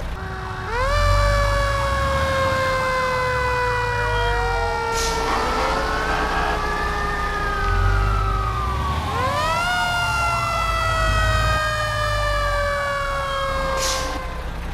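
Fire engine siren wailing in two long cycles, each rising sharply and then falling slowly. A second siren's rise and fall overlaps the first, over a low engine rumble.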